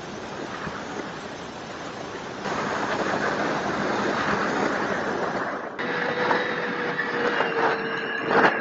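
Wind rushing over the microphone, growing louder about two and a half seconds in. About six seconds in, the thin steady whine of a small electric RC plane's motor and propeller comes in over the wind.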